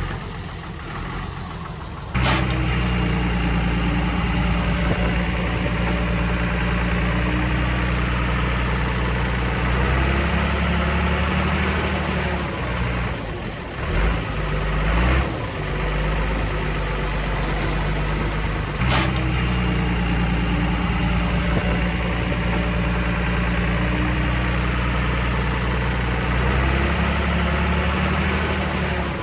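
Diesel engine of heavy earthmoving machinery running steadily. It gets suddenly louder about two seconds in, dips and shifts in pitch for a few seconds around the middle, and a sharp knock is heard about two-thirds of the way through.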